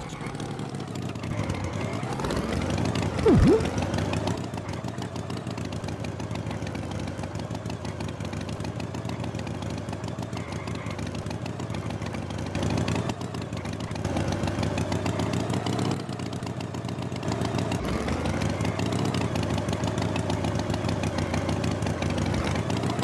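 Tractor engine running steadily, revving up with a rising pitch twice, with one short loud sound a little over three seconds in.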